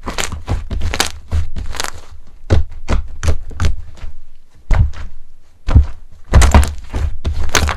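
Slime being pressed and squeezed by hand: an irregular run of sticky clicks and pops, several a second, with soft low thuds as it is pushed down.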